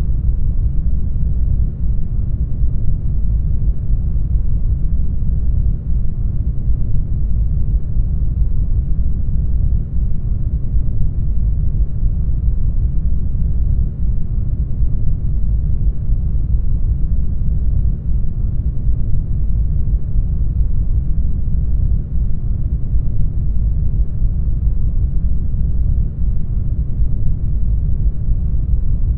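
Brown noise: a steady, deep rumbling hiss with most of its weight in the bass and little treble. It has a slight dip in level about every four seconds.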